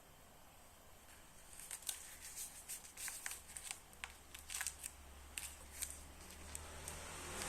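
Packaging being handled and opened by hand: a run of irregular small clicks and rustles that starts about a second and a half in, turning into a steadier crinkling near the end.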